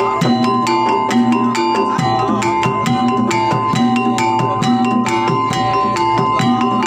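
Jaranan gamelan ensemble playing: fast, dense drumming with struck metal gamelan instruments ringing pitched notes over it.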